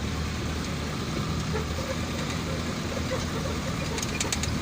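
Delivery truck's engine running and road noise while driving, a steady low rumble, with a few short clicks about four seconds in.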